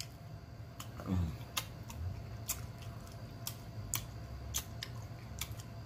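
Close-up chewing of chitterlings, with sharp, irregular wet mouth clicks and smacks about once or twice a second. A short, low hum falling in pitch comes about a second in.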